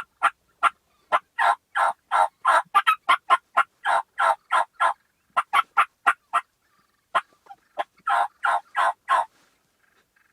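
Turkey yelping: a long series of short, evenly spaced yelps, about three a second, with a short break a little past the middle before a second run.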